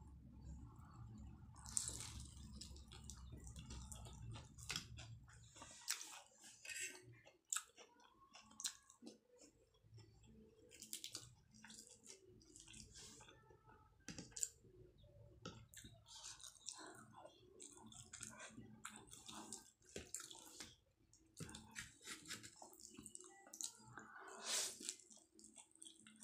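Close-miked wet chewing and lip-smacking while eating soft food, with scattered light clicks of a metal fork on a ceramic plate. A faint low hum stops about six seconds in.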